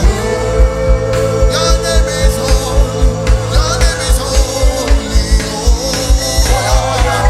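Live church worship music: a band plays with a steady drum beat of about three beats a second under a long held note.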